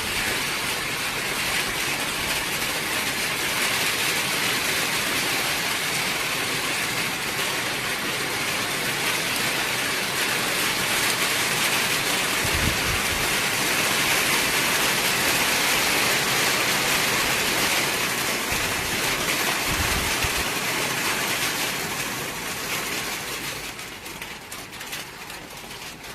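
Steady heavy rain falling, easing off and thinning out into scattered drops near the end.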